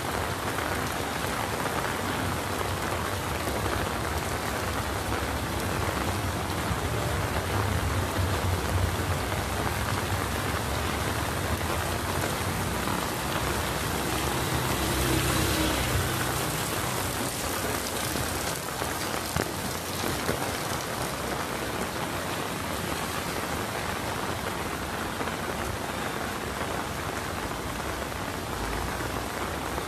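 Steady heavy rain falling on a wet street and awnings. A vehicle passes on the wet road about halfway through, adding a low rumble.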